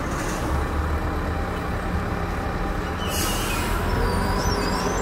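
Hidromek 102S backhoe loader diesel engine running steadily at a road construction site. About three seconds in there is a burst of hiss, followed by a wavering high squeal.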